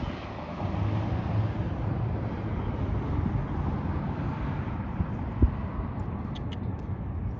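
Steady low outdoor rumble, with one sharp knock about five and a half seconds in.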